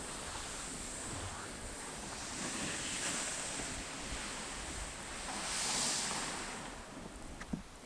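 Sea waves washing onto a shore with wind, swelling up and easing off about three and six seconds in. A single short knock comes near the end.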